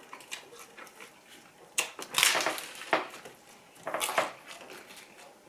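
Close-miked crunching of crusty toasted sandwich bread being bitten and chewed: a run of sharp, crackly crunches, loudest about two and four seconds in.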